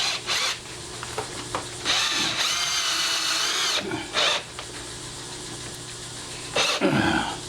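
Electric drill-driver running steadily for about two seconds to drive a lock screw tight that a hand screwdriver could not tighten, with a few shorter bursts around it.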